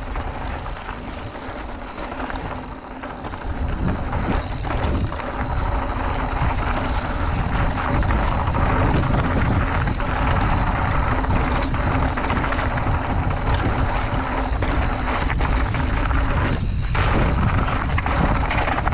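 Wind buffeting the microphone and tyre noise from a full-suspension mountain bike rolling fast over rough trail, with scattered knocks and rattles from the bike. The sound drops briefly about 17 seconds in.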